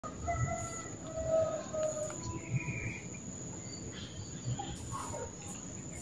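A bird giving short whistled calls, several in the first couple of seconds and scattered after, over a steady high-pitched insect drone. There are a few faint low bumps underneath.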